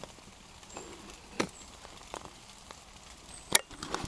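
Small campfire of shaved dry boards and spruce resin crackling softly, with a few sharp pops, the loudest about three and a half seconds in.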